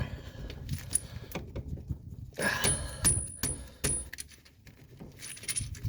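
Metal clinks, taps and scrapes of a suspension bolt and washer being worked into the strut fork and lower control arm, with a busy run of knocks in the middle and a brief lull after.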